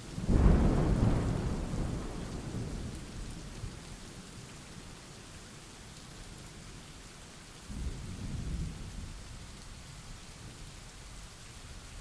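Thunderstorm: steady rain falling, with a loud clap of thunder about half a second in that rumbles away over a few seconds, and a second, softer roll of thunder about eight seconds in.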